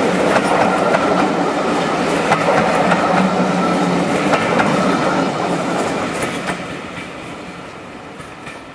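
Railway passenger coaches rolling past, their wheels clicking over the rail joints. The sound fades away over the last few seconds as the end of the train passes and moves off.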